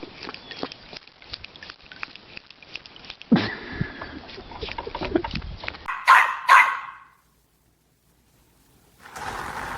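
A dog barks twice in quick succession about six seconds in, after several seconds of scattered knocking and clattering noises.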